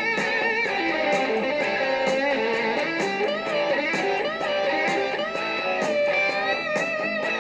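Rock music with no vocals: an electric guitar lead playing bent, wavering notes over a backing band with drums, in the song's instrumental break.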